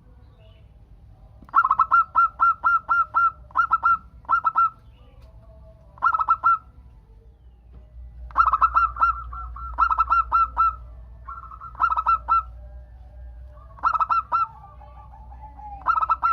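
Zebra dove (perkutut) cooing: phrases of rapid repeated notes, recurring every one to two seconds, some ending in a lower drawn-out note.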